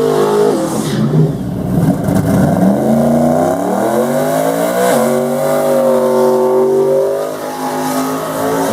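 Race car engine accelerating hard through the gears. Its pitch climbs, drops at a gear shift near the start and again about five seconds in, then climbs again.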